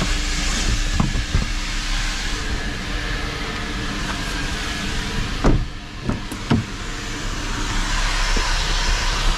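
Vacuum cleaner running with a steady rushing hiss and a faint hum while the car's interior is vacuumed. A little past halfway the hiss briefly drops and a few knocks sound as the nozzle bumps against something.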